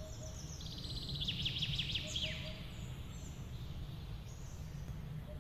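Small birds chirping, with a quick run of rapid repeated and falling high notes in the first couple of seconds and a few fainter calls later, over a steady low rumble.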